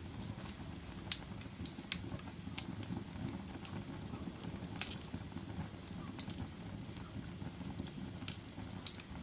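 Fire burning, with a steady low rumble and about ten sharp crackles and pops at irregular intervals.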